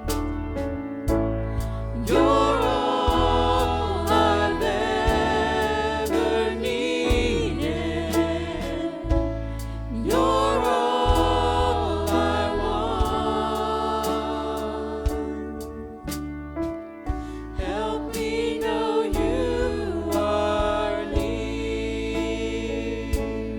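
Worship music: voices singing with vibrato over instrumental accompaniment with sustained bass notes and a steady beat.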